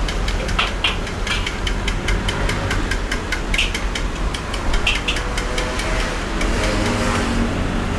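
A train passing close by: a steady low rumble under a rapid, even clatter of wheels over rail joints, which stops near the end.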